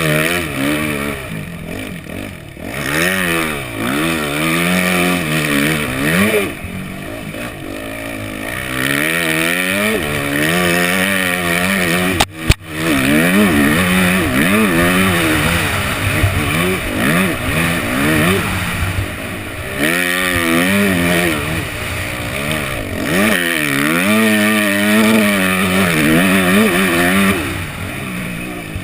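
Yamaha 250F four-stroke single-cylinder motocross engine being ridden hard, revving up and easing off again and again so its pitch keeps rising and falling. A single sharp knock comes about halfway through.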